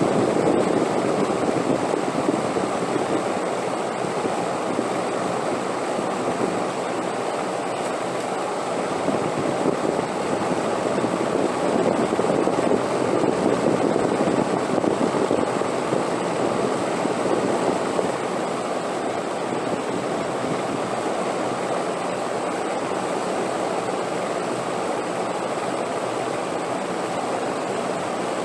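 Wind blowing steadily: an even rushing noise that swells in the middle and then eases back.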